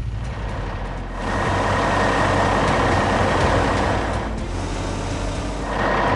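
Cartoon truck sound effect: a steady low engine rumble, with a long surge of hiss starting a little over a second in and another near the end.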